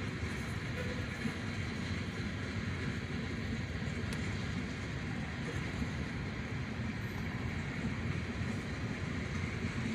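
Freight train of tank cars rolling past: a steady noise of steel wheels on rail, with no horn or distinct knocks.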